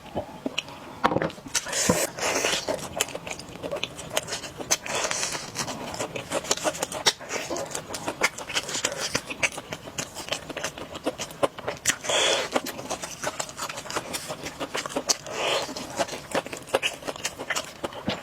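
Close-miked eating of spicy noodle soup: constant wet chewing clicks with several brief slurps spread through.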